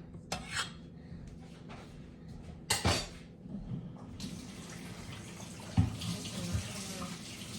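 A few knocks and clatters, one near the middle sharper than the rest. Then a kitchen tap is turned on about four seconds in, and water runs steadily into the sink.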